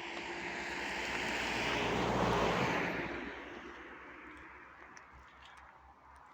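A vehicle passing by, its noise swelling to a peak a little over two seconds in and then fading away.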